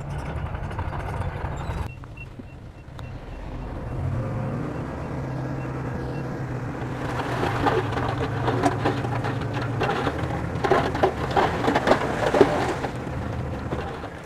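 Bulldozer diesel engine running steadily, joined about halfway through by heavy clattering and crunching, loudest near the end, as the machine works and pushes soil.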